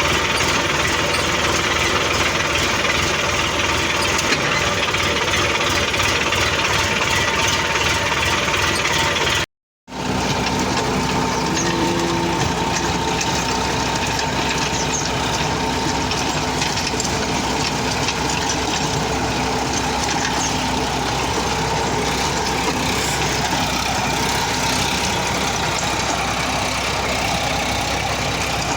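Sonalika tractor's diesel engine running steadily, with a brief break in the sound about a third of the way through.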